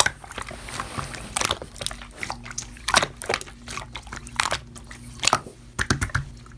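Slime (액괴) being squished and pressed by hand, giving irregular sticky clicks and crackles.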